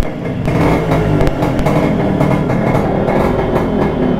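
Yamaha RX 100's two-stroke single-cylinder engine running, loud and steady, its rapid firing strokes plain to hear; a crisp-running old two-stroke that still starts on the kick.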